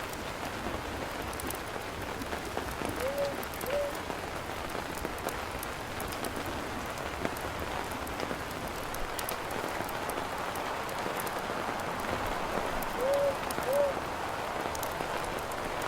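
Steady rain falling, with faint scattered crackles, as of a campfire burning in the rain. A short two-note call sounds twice, about ten seconds apart.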